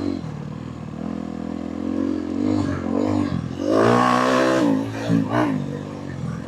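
Dirt bike engine running under a riding rider's throttle, its pitch rising and falling, with a loud rev about four seconds in before easing off.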